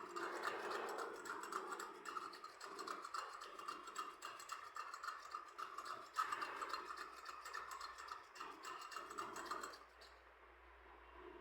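Dense, rapid mechanical clicking and rattling that stops near the end.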